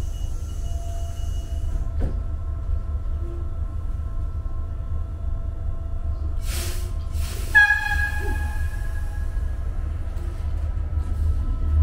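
Inside a DART 8100 Class electric train standing at the platform: a steady low hum with a faint whine. A little past halfway comes a short burst of hiss, then a single bright chime-like tone that rings and fades over about a second.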